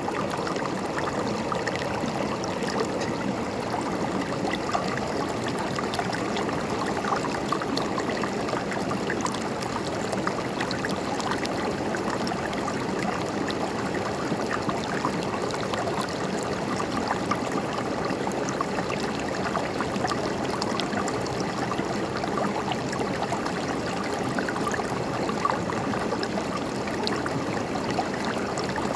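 River water flowing and gurgling over rocks in a steady, continuous rush, with small splashes flickering through it.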